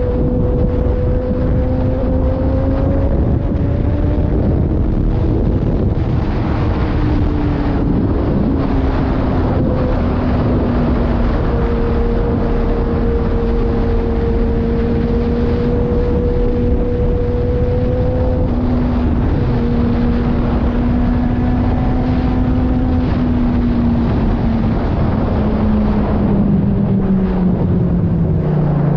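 Kawasaki Ninja ZX-10R's inline-four engine running at steady revs on the move, with wind noise over the microphone. The engine pitch drops near the end as the bike slows.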